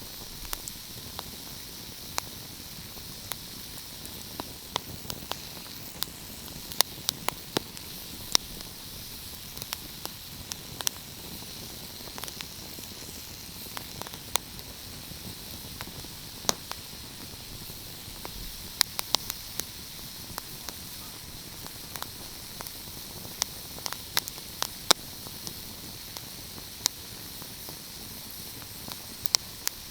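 Wood fire crackling: irregular sharp pops and snaps, a few of them louder, over a steady hiss.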